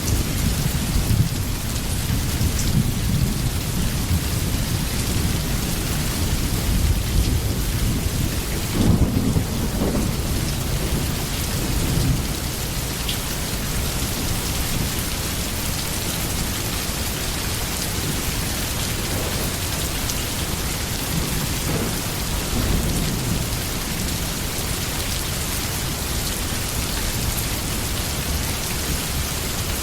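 Steady heavy rain with rolls of thunder rumbling low beneath it, strongest about nine seconds in and easing off in the second half.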